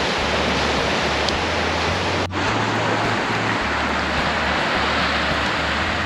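Steady rushing noise of surf on the beach, over a low bass line of background music. There is a brief dropout about two seconds in.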